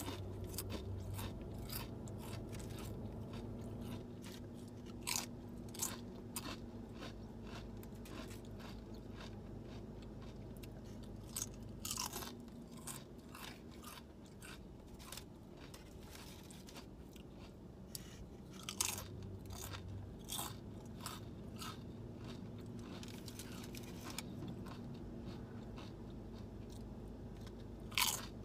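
A person chewing crunchy SunChips and a sub sandwich, with sharp, irregular crunches throughout. The loudest crunches come about twelve seconds in, about nineteen seconds in, and near the end.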